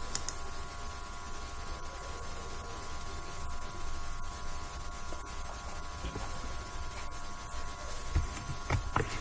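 Steady electrical hum and background hiss from the recording setup, with a couple of faint clicks about a quarter second in and a few brief low sounds near the end.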